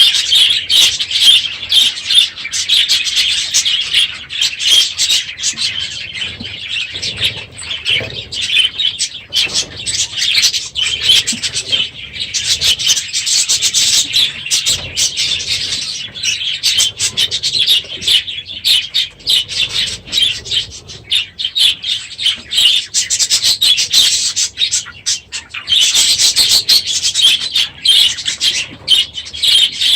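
A flock of budgerigars chirping and chattering loudly all together, a dense, unbroken chorus of high chirps.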